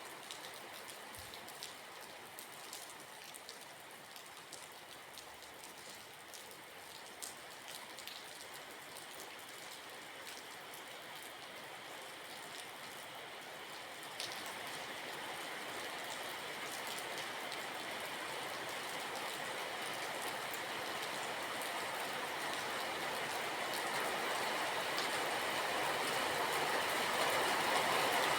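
Steady rain with scattered drops striking a surface. From about halfway, a steady rushing noise grows slowly louder.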